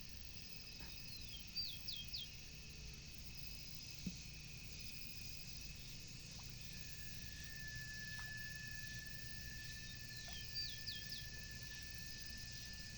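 Outdoor ambience: a bird sings the same short phrase twice, a falling slur then three quick high notes, about nine seconds apart. Under it run steady high insect-like chirring and a faint repeating trill. A thin steady whine joins about seven seconds in.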